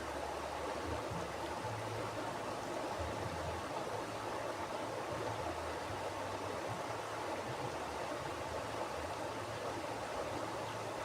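Mountain river flowing over rocks: a steady, even rush of water with no break.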